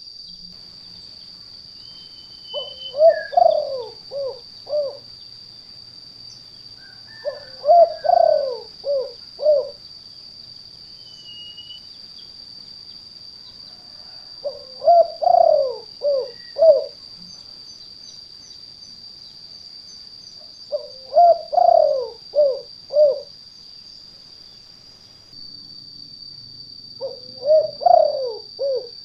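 Spotted dove (tekukur) cooing its 'kuk 2' call: five phrases about six seconds apart, each a rolling coo followed by a few short clipped notes. It is a male calling to attract or challenge other doves, the lure call used by bird trappers. A steady high-pitched tone runs underneath throughout.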